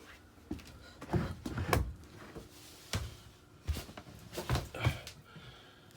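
A scattering of knocks and thumps on hard surfaces: someone climbing up into the cabin with the stairs removed.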